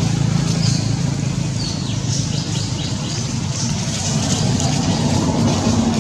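A motor vehicle engine running steadily, with short high chirps above it several times.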